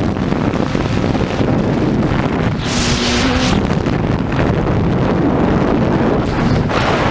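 Racing motorcycle at speed, with heavy wind noise on the microphone over the engine. A brief, brighter hiss comes about three seconds in.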